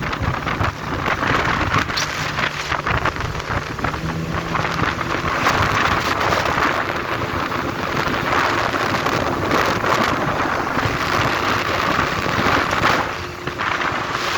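Small boat under way with a Yamaha 30 outboard motor running steadily, its drone half buried under a loud, even rush of wind on the microphone and water spray.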